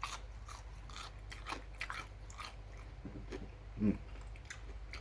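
Crunchy bites and chewing of home-made fried chicken in its crisp breading, heard close up as a run of quick crackling crunches. A short hummed voice sound comes just before the end.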